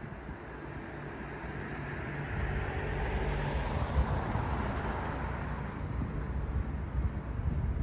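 City street ambience: a car passing by, its tyre and engine noise swelling to a peak a few seconds in and then fading away, over a steady low rumble.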